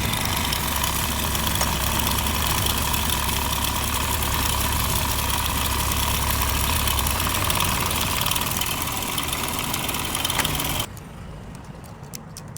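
Motorcycle engine idling steadily, cutting off suddenly about eleven seconds in, followed by a few light clicks.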